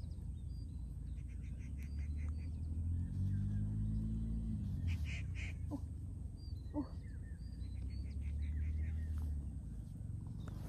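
Small birds chirping in short high calls and quick trills over a steady low rumble that swells for a second or two around the middle, with two brief rising squeaks a little after the middle.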